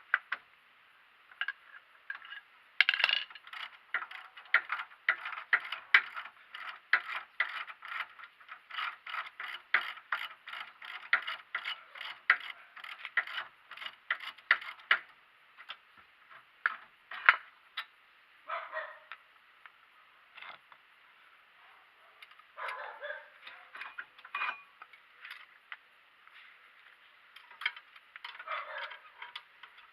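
Ratchet wrench clicking in a long run of quick, even clicks as a bolt is turned, then in shorter bursts, with a few brief metal scrapes and clanks.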